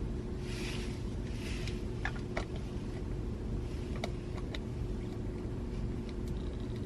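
Steady low rumble of a car cabin, with a faint steady hum, two soft rustles in the first couple of seconds and a few light clicks.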